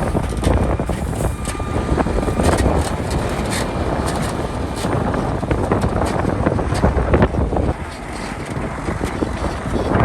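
Heavy earthmoving machinery working stone: a diesel engine rumbles under a dense clatter of many sharp knocks as rocks tumble and strike each other. It eases off somewhat near the end.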